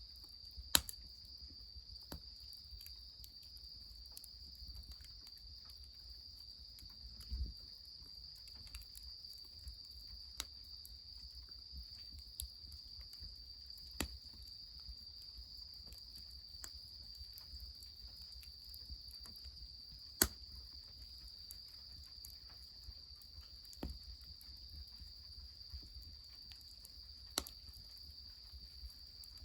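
A steady high trilling of insects, crickets by their sound, with the sharp snaps and pops of a wood fire crackling every second or two; the loudest pops come a little after the start and about two-thirds of the way in.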